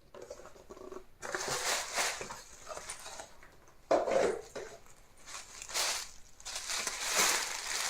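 Wig packaging being opened and handled: irregular rustling and crinkling in several surges, sharper ones starting about a second in and again at about four seconds.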